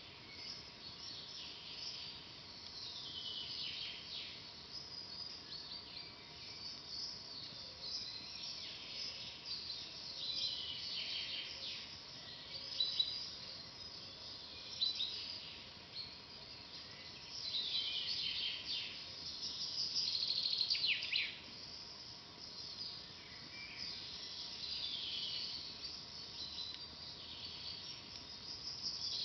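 Several songbirds singing in a forest, short phrases overlapping, several of them quick trills that fall in pitch, recurring every few seconds. Two sharp pops about halfway through.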